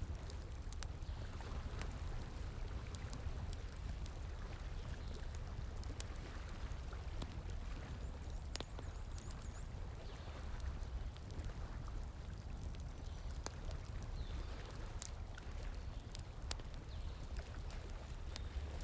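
Wood fire crackling with scattered sharp pops over the steady rush of flowing stream water.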